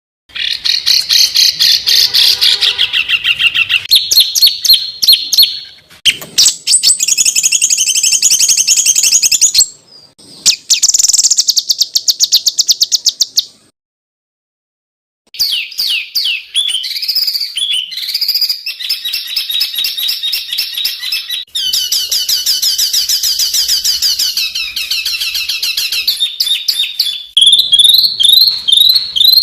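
Songbird song used as masteran: fast, harsh rapid-fire runs of high chattering and trilling notes, in several spliced stretches that start and stop abruptly, with a full break about halfway through.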